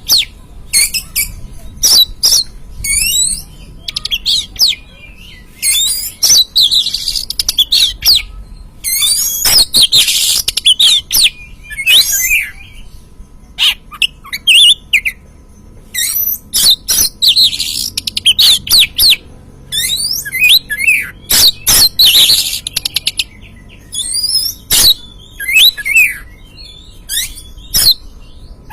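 Oriental magpie-robin (kacer) singing: repeated bursts of quick, varied whistled and chattering phrases with short pauses between, punctuated by sharp clicks.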